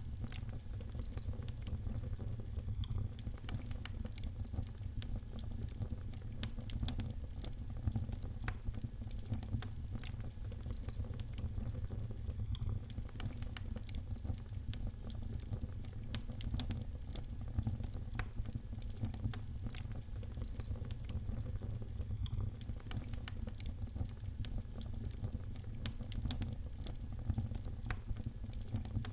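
Wood fire in a fireplace crackling: many small sharp pops and snaps over a low, even rumble.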